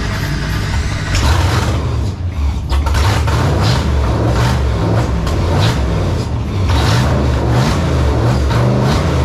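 Freshly rebuilt engine with new fuel injectors running loudly at its first start-up, its steady low note broken by repeated short surges as the throttle is blipped.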